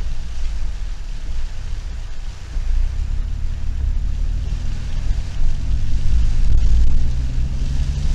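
Suzuki Every DA17V kei van driving, heard from inside the cabin: a steady low rumble of engine and tyres on a wet road, with an even hiss of hard rain and wind over it.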